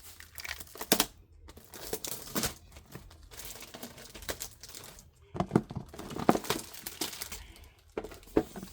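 Plastic packaging crinkling and rustling in irregular bursts as a new plastic storage organizer is unwrapped by hand, with a few sharp crackles and handling knocks.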